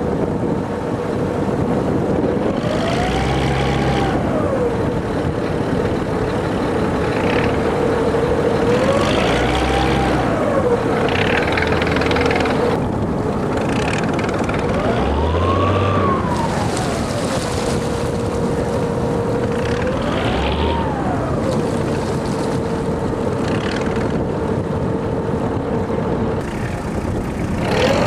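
Ferry boat engine running with a steady whine, revved up and eased back down four times, each surge lasting a couple of seconds with a deeper rumble, over a steady hiss.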